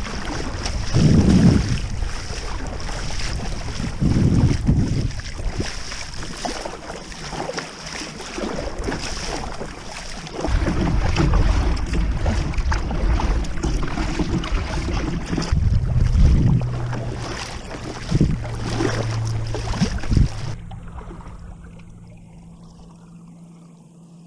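Water sloshing and lapping around a moving kayak, with wind gusts rumbling on the microphone. It turns much quieter for the last few seconds.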